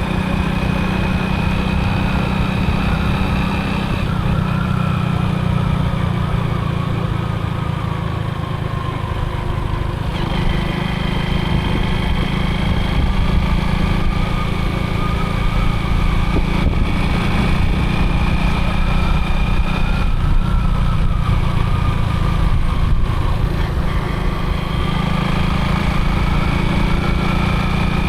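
Motorcycle engine running steadily while riding, its pitch shifting slightly every few seconds.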